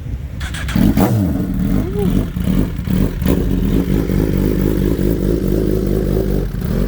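A motor vehicle engine running steadily at idle, with a few sharp clicks over it in the first half.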